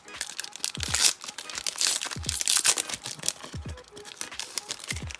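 Foil booster pack wrapper being torn open and crinkled, with dense irregular crackling and a few dull thumps from handling.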